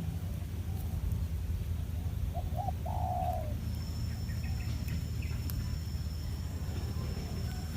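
A bird calling in the wild: two short low notes, then a longer low call, about two and a half to three and a half seconds in, over a steady low rumble. A faint, steady, high-pitched whine comes in about halfway through.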